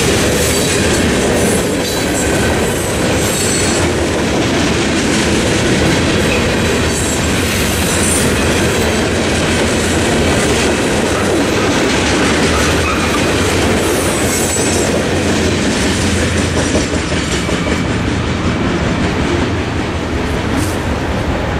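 A CSX freight train's covered hoppers and tank cars rolling past close by, wheels clattering on the rails. The noise eases as the end of the train passes, past the three-quarter mark.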